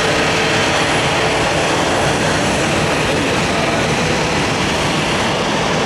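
Jet airliner engines, a loud steady rush of noise.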